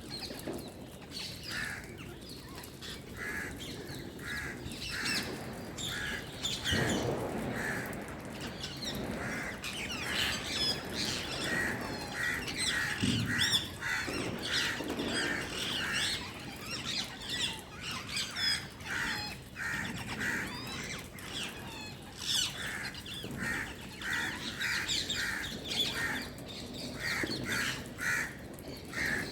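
Birds calling: a harsh call repeated about twice a second, with higher chirps over it. A low, dull rumble comes about seven seconds in and again near thirteen seconds.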